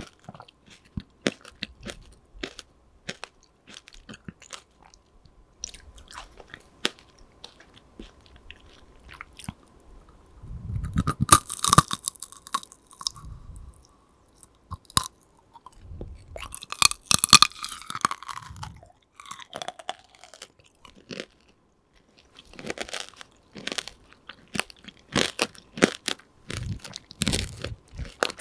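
Close-miked eating of tanghulu: biting into the candied sugar shell and chewing, with many small crackles and clicks and two louder spells of crunching about eleven and seventeen seconds in.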